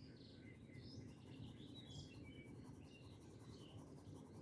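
Faint birds chirping now and then, with short scattered calls over a low steady background noise.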